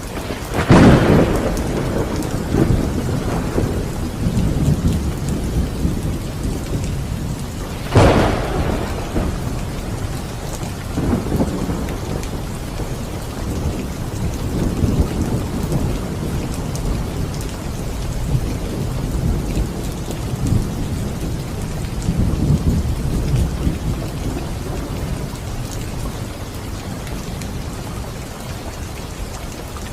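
Steady rain with thunder: a loud crack about a second in, another sharp crack about eight seconds in, then low rolling rumbles that die away toward the end.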